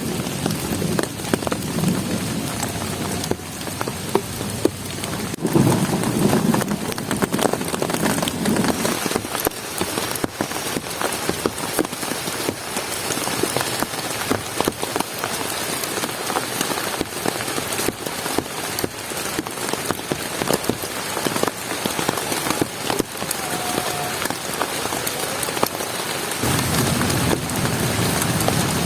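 Heavy rain falling steadily, with many separate drop hits on a nearby surface. A low rumble swells about six to nine seconds in.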